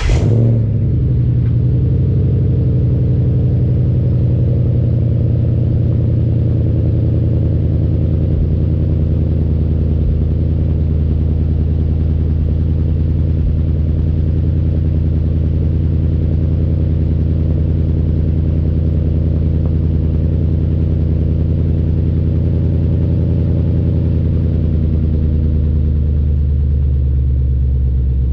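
Ford Mustang 5.0 V8 with the mufflers deleted, exhaling through SLP straight-through resonators, idling steadily just after starting up.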